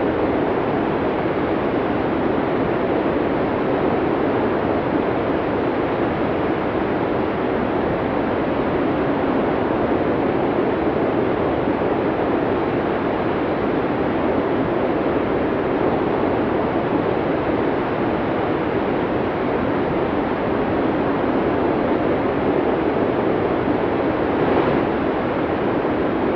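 Snowstorm wind blowing in a steady, unbroken rush, with a slight swell near the end.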